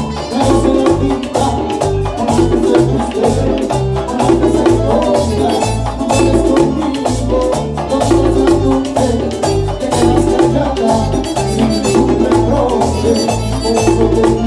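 Panamanian música típica band playing dance music, with a steady rhythmic bass line and hand percussion.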